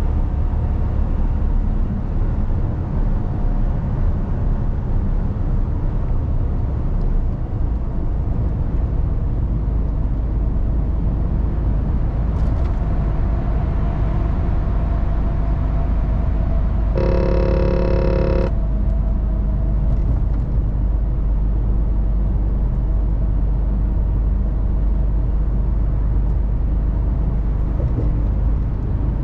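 Mercedes-Benz Actros truck on the move, heard inside the cab: a steady low engine and road rumble. Just past the middle a pitched tone sounds once for about a second and a half.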